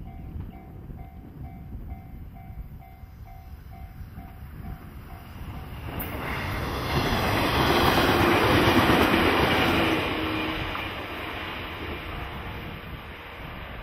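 Electric multiple-unit train passing on the line: its running noise and wheels on the rails build up, are loudest a few seconds into the second half, then fade as the train draws away. Early on a faint repeating tone sounds several times a second, then stops.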